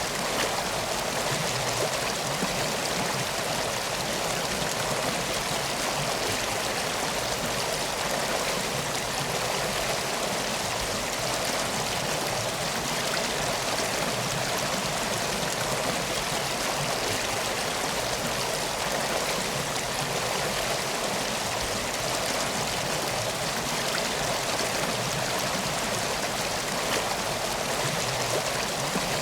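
Steady rush of flowing water, even and unbroken, with no pauses or distinct splashes.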